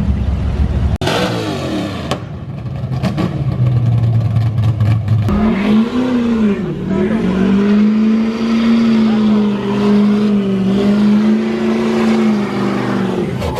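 Car engines revving. From about five seconds in, one engine is held at high revs with a wavering pitch, as in a burnout. The sound changes abruptly about a second in and again about five seconds in.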